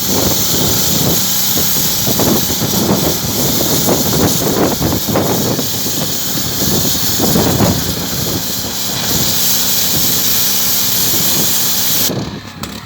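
Pressure washer running: a steady motor hum under the loud hiss of the water jet, which surges rougher at moments as the spray works over the wall. The spray cuts off sharply near the end.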